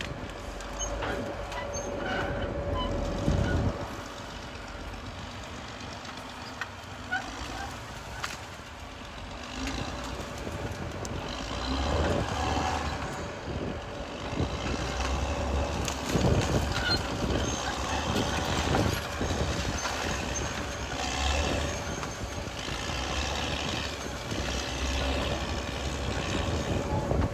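Caterpillar D6R XL bulldozer's diesel engine running and working, its rumble rising and falling, with scattered knocks and a steady whine.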